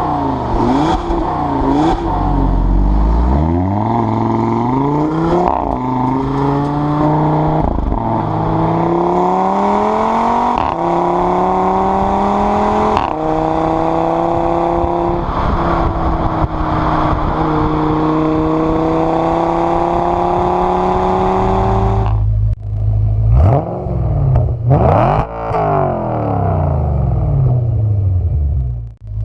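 Audi R8's 4.2-litre V8 exhaust. The engine revs up and down, then accelerates through several gears, its pitch climbing and dropping back at each shift, and holds a steady note. Near the end it settles to a low idle broken by two sharp throttle blips.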